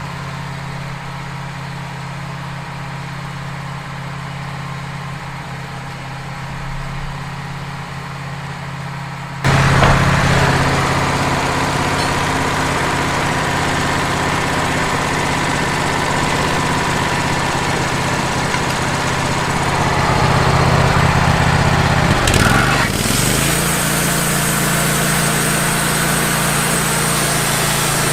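Wood-Mizer portable band sawmill running while sawing a pine log. The engine runs steadily at first. About nine seconds in, the sound jumps abruptly louder, with a rushing, hissing saw noise over the engine. Near the end the engine pitch dips briefly and recovers.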